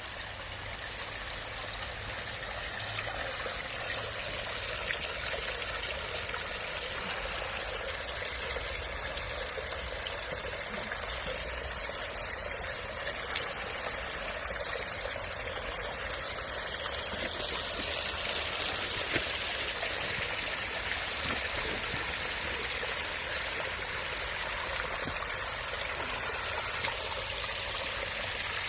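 Water splashing and trickling steadily down a backyard hardscape waterfall feature.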